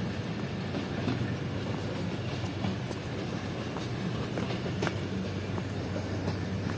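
Passenger train running on the tracks: a steady low diesel-locomotive drone under wheel and rail noise, with scattered sharp clicks of wheels crossing rail joints.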